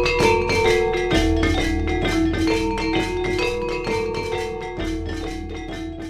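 Gamelan music: an ensemble of struck bronze metallophones and gongs playing dense, ringing notes at a steady pulse. It fades steadily in the second half.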